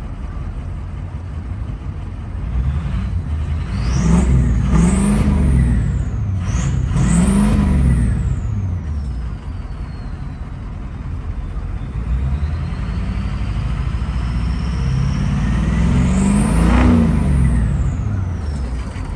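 Ford 6.0 Power Stroke V8 turbodiesel free-revved in neutral through a straight-piped exhaust: a quick pair of revs about four seconds in, another a few seconds later, and a longer one near the end. With each rev the turbo spools up with a high whistle that climbs sharply and then slowly falls away as the engine drops back to idle.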